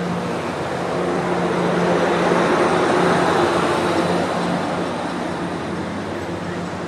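Train running past, its rumbling noise swelling to a peak a couple of seconds in and then easing off, over a steady low engine hum.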